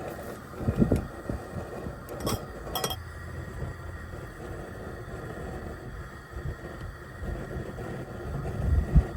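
Wind buffeting the microphone in low gusts over a steady background, with two light clinks of metal or glass a little over two seconds in and again just before three seconds.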